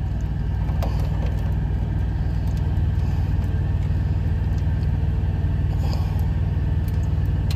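Steady low drone of an idling semi truck's diesel engine, heard from inside the cab.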